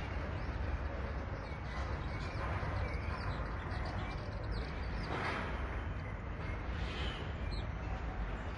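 Birds calling over a steady low rumble: short, high, downward-sweeping chirps through the first half, and a louder, harsher call about five seconds in.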